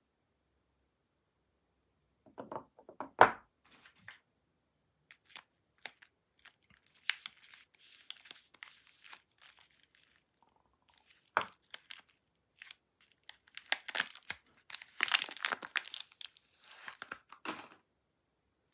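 Soap packaging being unwrapped by hand: wrapper crinkling and tearing in bursts, starting about two seconds in. There is a sharp knock about three seconds in, another past the middle, and a busy stretch of crinkling near the end.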